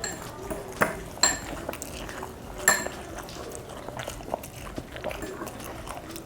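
A metal spoon clinks against a plate a few times, each clink ringing briefly, with quiet eating sounds between.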